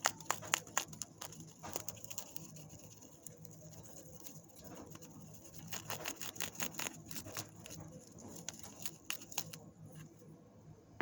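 Baby bird preening: soft, rapid clicks and rustling in bursts, near the start, in the middle and again near the end.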